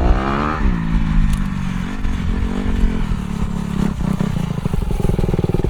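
Dirt bike engine revving up and dropping back about half a second in, then running at a steady speed. Near the end it gets louder, with a rapid, even firing beat.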